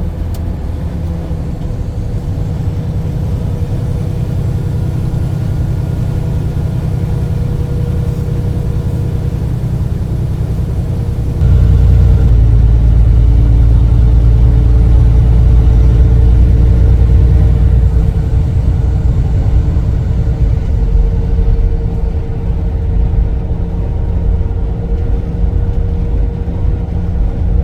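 Semi-truck under way: a steady low engine and road rumble with a constant hum above it. It steps up suddenly and gets louder about a third of the way in, then eases back a little later.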